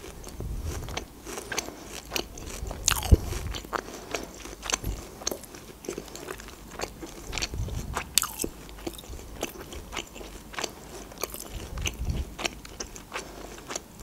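Close-miked chewing and biting of juicy grilled shashlik meat and then french fries, with many short sharp mouth clicks and a few soft low thumps of the jaw.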